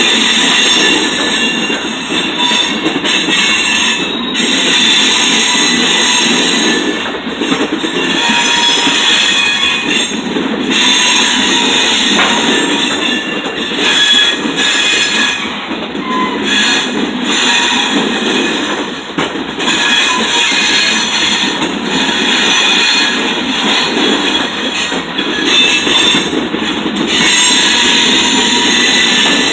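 Freight train cars rolling past with their steel wheels squealing in high, wavering tones over the steady rumble of the train.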